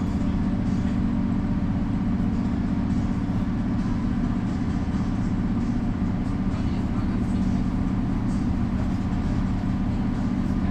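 Mercedes-Benz O405 city bus's six-cylinder diesel engine running with a steady, unchanging drone.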